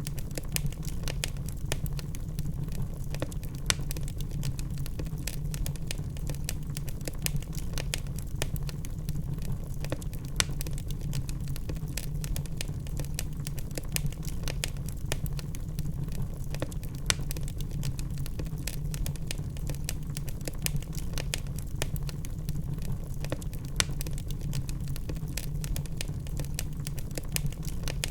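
Wood fire crackling: a steady low rumble with frequent irregular sharp pops and snaps, a few of them louder.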